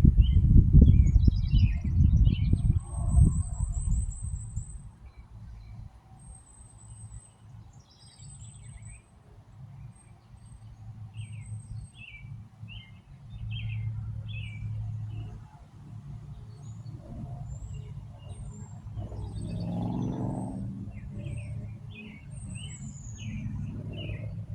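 Birds chirping in many short notes, with a few thin, very high notes, at a bluebird nest box. For the first few seconds they are heard over a loud low rumbling and knocking, with a faint low hum underneath.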